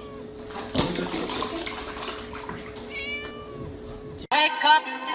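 A kitten mews once, a short high call about three seconds in. Before it comes a knock and a spell of splashing as a tipped milk carton pours. Music with singing starts suddenly near the end.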